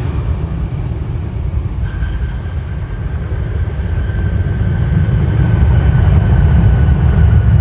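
Jet airliner engines rumbling deeply with a thin steady whine above, growing louder toward the end and then cutting off abruptly.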